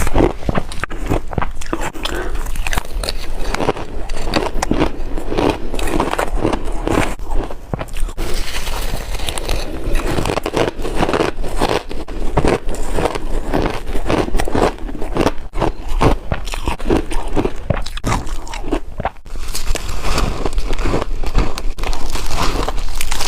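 Close-miked crunching of chunky ice being bitten, sharp cracks and crackles in a quick uneven run throughout.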